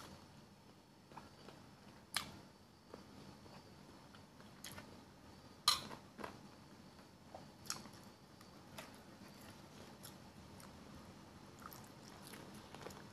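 Close-up chewing and gnawing on a boiled chicken foot, with scattered sharp clicks and crunches; the loudest comes about six seconds in.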